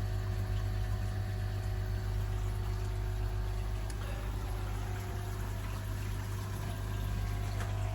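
Pond pump running with a steady low hum while water pours and splashes down through a bakki shower filter.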